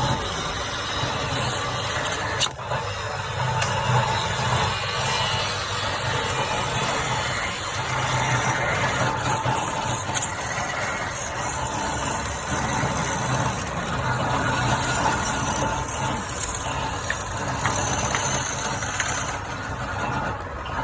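Wood lathe running steadily, with a sharp click about two and a half seconds in.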